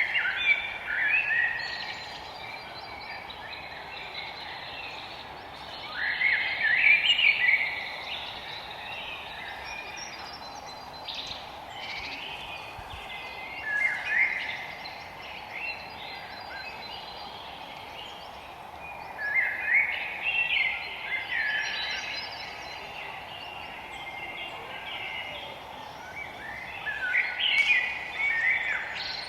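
Songbirds singing in a forest: a warbling, chirping song phrase of about a second or two, repeating roughly every six to seven seconds. A steady low hiss runs beneath it.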